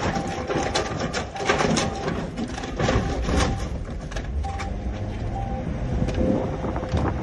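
Truck and street noise with repeated clanks and knocks, and a short beeping tone that keeps coming and going.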